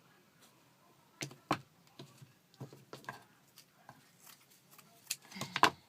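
Hands handling a small craft sculpture and its materials: scattered light taps, clicks and rustles, with a louder cluster of knocks near the end.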